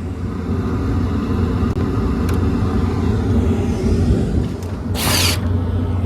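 Carrier rooftop HVAC unit running in heating mode: a steady low hum and rumble. A brief loud burst of noise comes about five seconds in.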